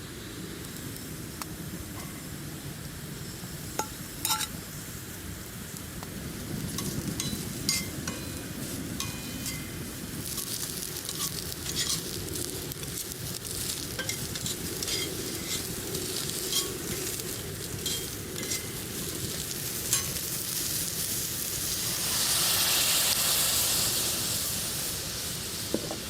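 Food frying in a pan over a campfire: a steady sizzle dotted with sharp crackling pops, swelling into a loud, bright sizzle for a few seconds near the end.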